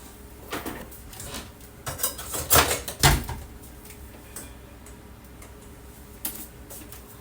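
Kitchen dishes and utensils knocking and clinking, a scatter of separate clatters. The loudest come close together about two and a half and three seconds in, the second with a dull thud; one more comes near the end.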